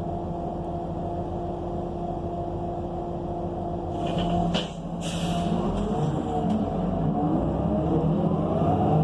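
Transit bus's Cummins Westport ISL G natural-gas engine running steadily at idle, then a sharp burst of air hiss about four seconds in, like the air brakes releasing. The engine and Allison automatic transmission then wind up with rising pitch as the bus pulls away and accelerates.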